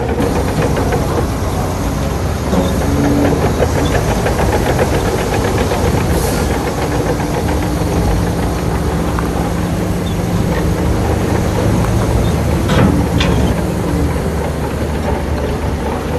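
Shantui crawler bulldozer's diesel engine running steadily under work, with a continuous metallic rattle and two sharp clanks near the end.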